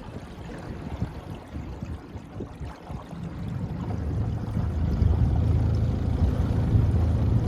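Boat's outboard motor running, a steady low hum that grows louder from about halfway through, over the rush of water.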